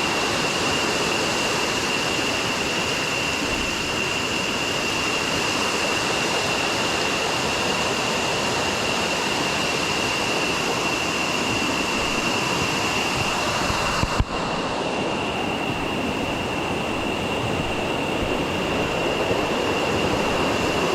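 Steady rush of a jungle river and waterfall, with a constant high steady tone over it and a single knock about fourteen seconds in.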